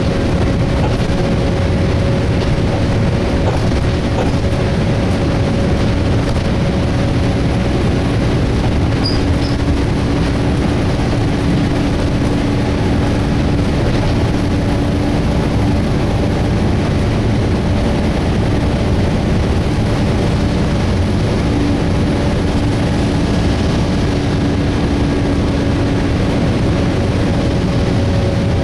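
Interior sound of a Volvo B7TL double-decker bus running, with a steady hum from its engine cooling fan. The fan runs without the screeching it sometimes makes.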